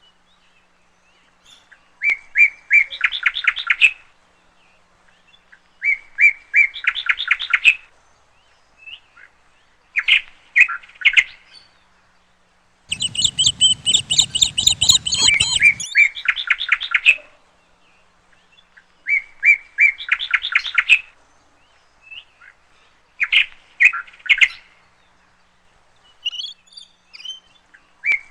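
A songbird singing the same short phrase over and over, each a quick run of repeated chirping notes lasting about two seconds, with pauses of about two seconds between. Around halfway through comes a longer, fuller burst of song.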